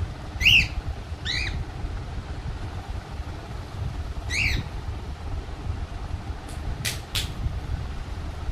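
A baby parrot giving three short, rising-then-falling squawky calls, two close together then one a few seconds later, over a low wind rumble on the microphone. A few sharp clicks near the end.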